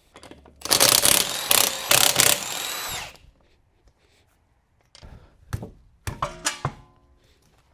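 Impact wrench running in several short bursts for about two seconds, spinning the lug bolts off a car's front wheel, then winding down. A few sharp metallic clicks and knocks follow, one of them ringing briefly.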